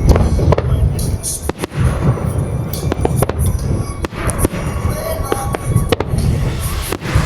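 A fireworks display: shells bursting one after another with deep booms and sharp cracks, music playing along underneath.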